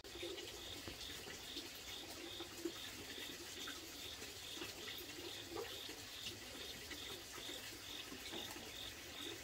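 Water running, with a high chirp repeating steadily about twice a second behind it.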